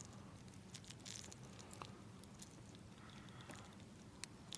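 Near silence: a faint low hum with a few soft scattered clicks and ticks.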